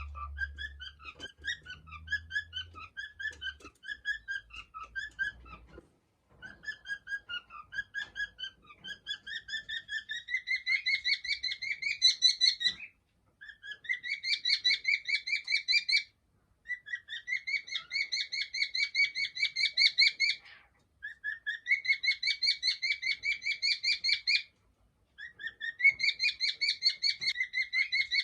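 Cockatiel singing: rapid strings of short chirping whistle notes, several a second, in phrases of three to four seconds separated by brief pauses, growing louder partway through.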